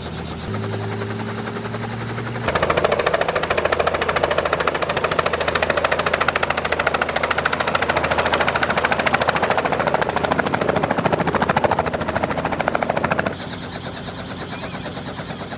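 Helicopter in flight: fast, even beating of the rotor blades over the engine, getting louder about two and a half seconds in and dropping back near the end.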